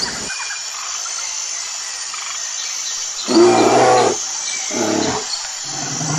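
Bear growling twice, deep calls about three and five seconds in, the first longer and louder, over a steady outdoor hiss.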